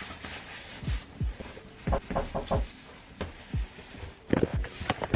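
Soft low thumps of walking while carrying the camera, footsteps and handling bumps, at an uneven pace of about two a second, with a few sharper clicks about two seconds in and near the end.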